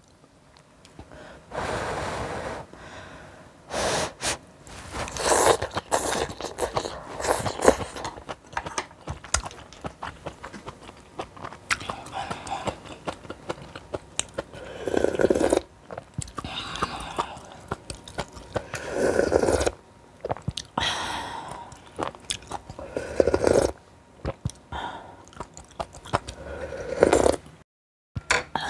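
Close-miked mukbang eating: a person chewing and biting spicy food with crunchy bites, with a few louder breathy gusts about every four seconds in the second half.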